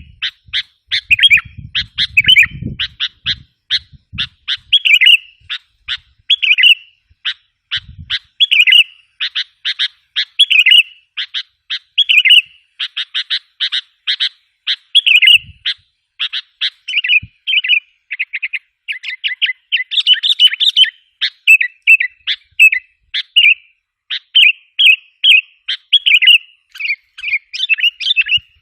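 Sooty-headed bulbul (kutilang) calling: a fast chatter of short notes broken about every second by a longer, fuller phrase. This is a lure call, used to excite and draw in wild bulbuls.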